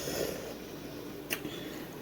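Close-up chewing of cold, juicy watermelon: a short wet squish at the start, then a single sharp click about a second and a half in.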